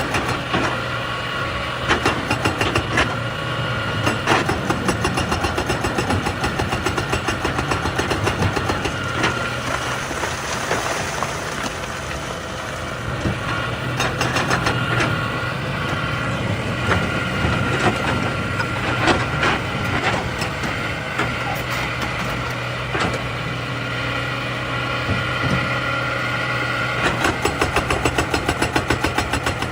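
Excavator's diesel engine running steadily, with scattered sharp clanks and knocks of metal and rock, and a fast regular rattle near the end.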